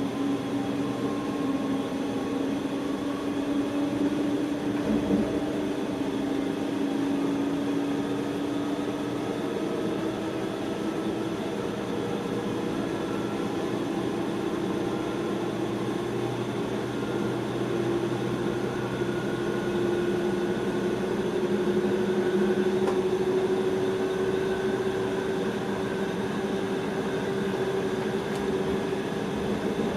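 Electric train running, heard from inside the driver's cab: a steady rumble of running noise with a whine that dips slightly at first, then climbs steadily in pitch through the second half as the train gathers speed.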